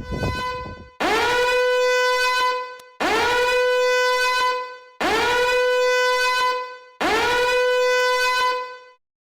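A horn-like tone sounding four identical long blasts about two seconds apart, each swooping up into a steady, buzzy pitch. The blasts repeat exactly and stop dead, as an edited-in sound effect does.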